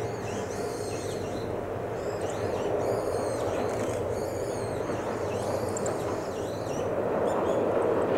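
Ohmi Railway electric train, set 807F, approaching over a steel girder bridge: a steady running rumble that grows slowly louder toward the end. Small birds chirp repeatedly above it.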